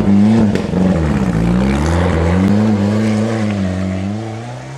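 Ford Sierra Cosworth Group A rally car's turbocharged Cosworth YB four-cylinder running, its revs rising and falling, then fading out near the end.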